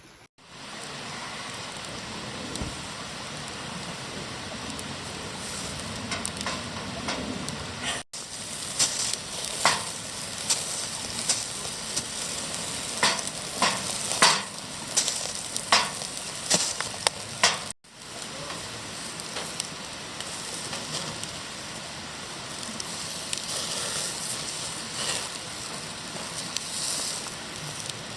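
Food sizzling in a hot pan over a camp stove or fire, a steady frying hiss. Through the middle stretch sharp pops and crackles spit out of the sizzle.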